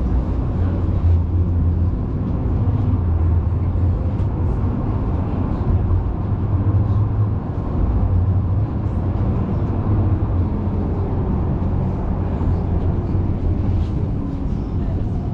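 Amsterdam tram running along the street, heard from inside: a steady low rumble of the motors and wheels on the rails, with a few faint clicks and knocks.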